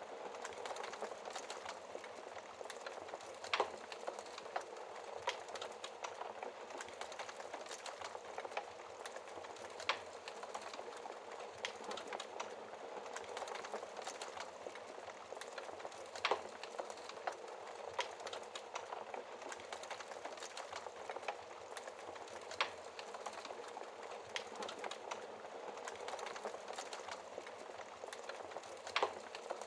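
Wood fire burning steadily in a fireplace, with a continuous soft crackle of small snaps and a few louder sharp pops spaced several seconds apart.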